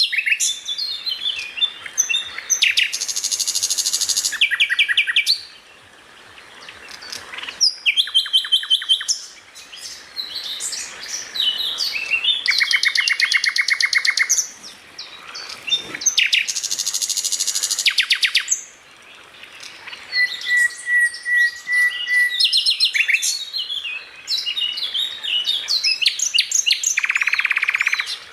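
Cucak ijo (greater green leafbird) singing a fast, varied song of sharp chirps and whistled phrases, broken several times by dense, rapid rattling trills, with one long thin whistle held for about two seconds past the middle.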